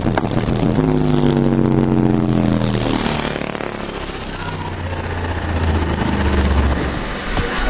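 15-inch Dragster DWC-258 subwoofer playing deep bass: a buzzy tone with many overtones that slides slowly down in pitch over the first few seconds, then a steady low bass note near the end.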